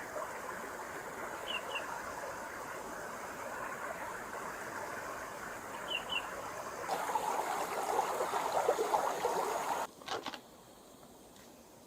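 A forest stream flowing steadily, with two quick high chirps, likely a small bird's, heard twice. The water noise grows louder and rougher for about three seconds, then cuts off abruptly near the end with a couple of clicks, leaving a much quieter background.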